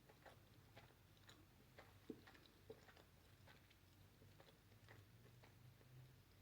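Near silence: faint, scattered small clicks and ticks over a low steady hum.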